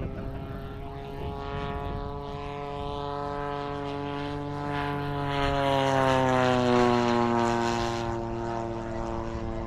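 Engine of a Seagull Models P-47 Razorback RC plane, an EME 60 two-stroke gas engine, running steadily as the plane flies past. Its drone grows louder to a peak about six to seven seconds in, and its pitch drops as it goes by.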